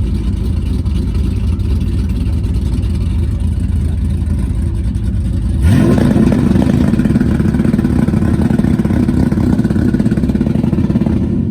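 A car engine idling with a low, steady note, then revving up sharply about halfway through, its pitch rising quickly and holding at higher revs, louder, until it cuts off near the end.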